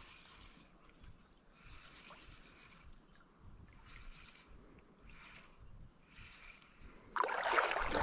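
Insects droning on one steady high note, with a softer buzz beneath that pulses on and off about once a second. About seven seconds in, a sudden loud rush of water cuts in.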